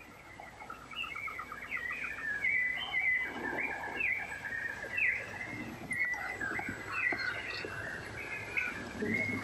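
Birds calling over and over: short chirps that sweep down in pitch, several in each second. A fast, even trill sits beneath them for the first couple of seconds.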